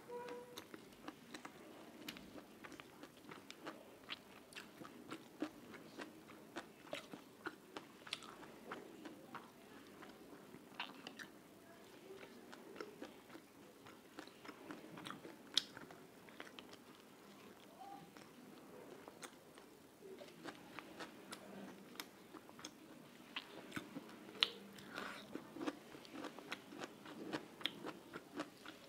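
Close-miked mouth sounds of a person chewing food: a steady run of small wet clicks, smacks and crunches at irregular intervals.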